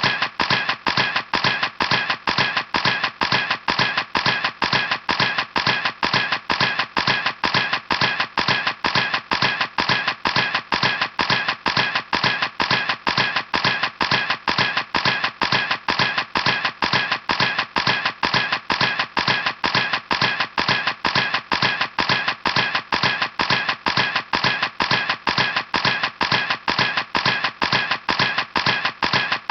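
Camera clicks repeating in a perfectly even rhythm, about three a second, each one sharp and alike.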